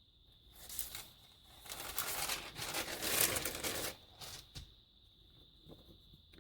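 Paper rustling and crinkling as sheets are handled, loudest from about a second and a half to four seconds in, with a few light taps around it.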